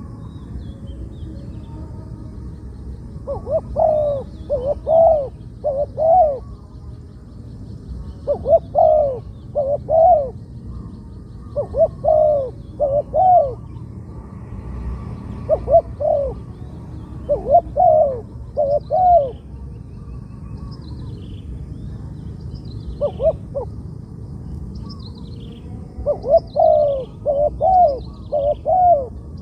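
Spotted dove cooing: phrases of three or four short, low, falling coo notes, repeated every few seconds with pauses between. Faint high chirps from other small birds join in during the second half, over a steady low rumble.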